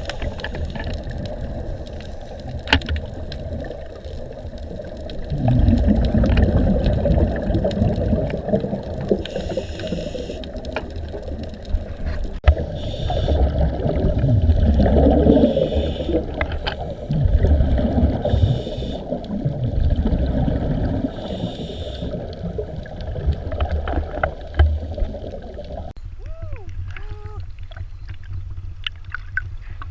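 Muffled water sloshing and rumbling, with short hissing bursts every few seconds. Near the end it changes abruptly to thinner gurgling and bubbling.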